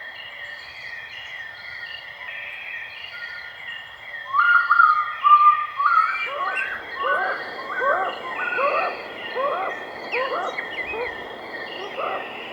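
Birds calling over a steady high insect-like drone: a soft repeated chirping, then from about four seconds in a louder call of short rising notes, about two a second.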